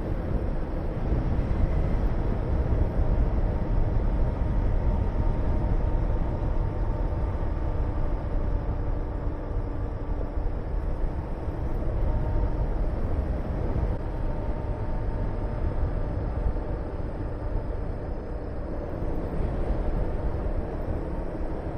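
Honda VTR250's 90-degree V-twin running steadily on the move, under heavy wind rush on the microphone.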